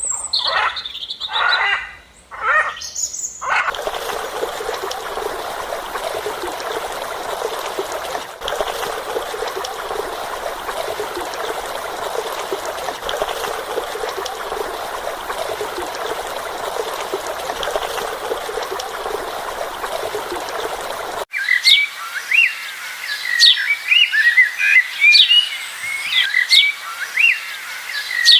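A few short sweeping calls, then a long steady rushing hiss like trickling water, then an abrupt change to birds chirping rapidly with quick up-and-down notes.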